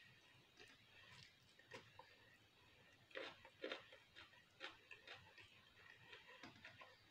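Faint close-up chewing with the mouth closed, a scatter of small wet clicks with a few crisper crunches about three to four seconds in.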